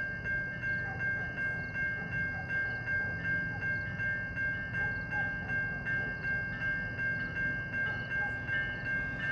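Level crossing warning bell ringing about twice a second over the low rumble of a train.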